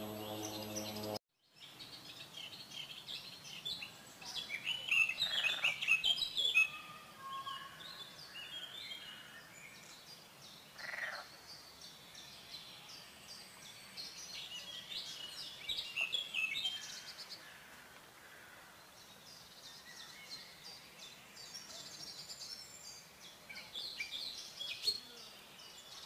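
Several songbirds chirping and singing over faint outdoor background. A snatch of music cuts off about a second in.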